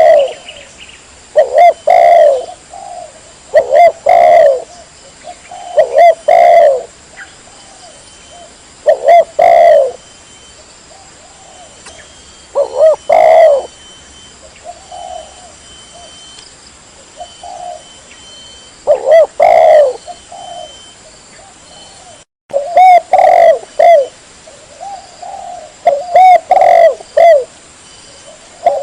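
Spotted dove (tekukur) cooing, clear and loud, in repeated phrases of a few notes about every two seconds, with a brief break about two-thirds of the way through.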